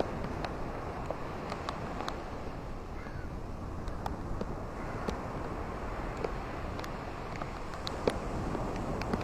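Rain and wind at the seaside: a steady low rushing noise with scattered sharp taps of single drops.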